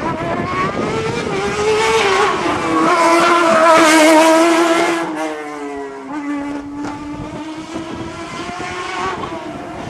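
A hillclimb race car going by at full throttle. Its engine gets louder to a peak about four seconds in, its pitch drops a second later, and it carries on fainter as it goes up the road.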